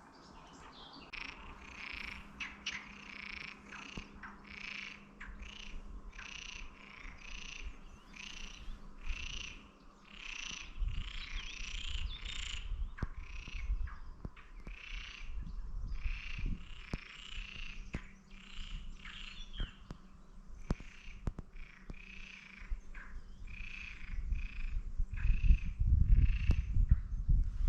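Frogs calling: a long run of short, repeated calls, about two a second. A low rumble swells in and out and is loudest near the end.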